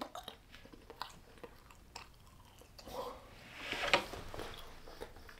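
A person chewing a bite of microwaved pizza roll. A few faint clicks come first, then softer mouth sounds grow louder about three to four seconds in.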